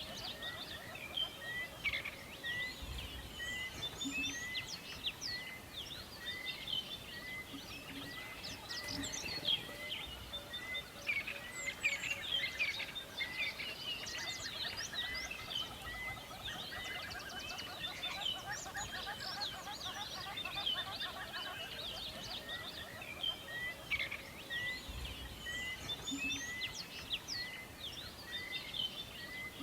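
Forest birdsong chorus: many birds chirping and trilling at once, with one bird repeating a short, even note about once or twice a second.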